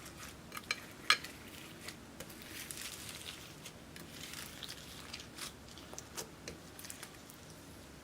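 Slime being mixed: irregular sticky clicks and small crackling pops, the sharpest about a second in.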